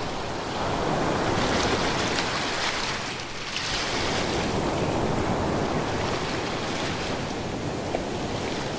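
Ocean waves breaking and washing up on a shore, a continuous rushing surf that swells, eases briefly about three seconds in, then builds again.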